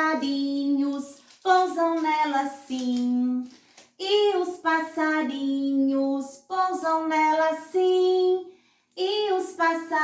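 A woman singing a Portuguese children's song unaccompanied, in short phrases of held notes with brief pauses between them.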